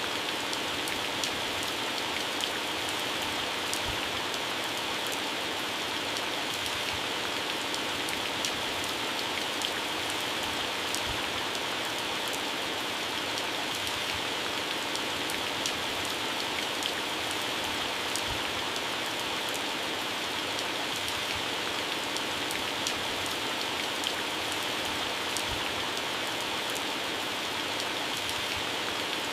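Heavy rain falling steadily on plants and grass, a constant hiss with many individual drops ticking on the leaves.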